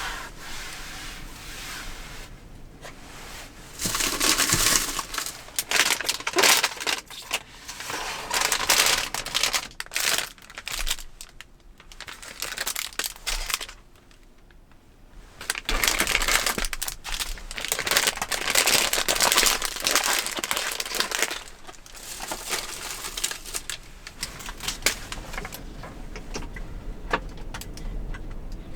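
Crinkling and rustling of material being handled, in stretches of several seconds full of small crackles, with a quieter pause about halfway through.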